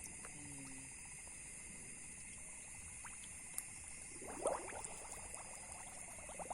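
Shallow river water splashing and sloshing, with a brief burst about four and a half seconds in and a run of quick small splashes and drips near the end, over a steady high-pitched background.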